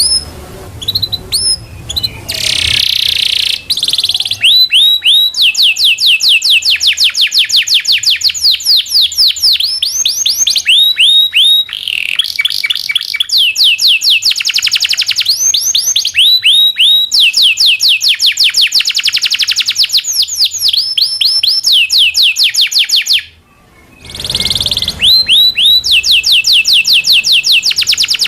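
Local Indonesian canary (kenari lokal) singing a long song of fast rolls and trills: rapid runs of repeated downward-sweeping notes that change pattern every few seconds, with a short pause near the end.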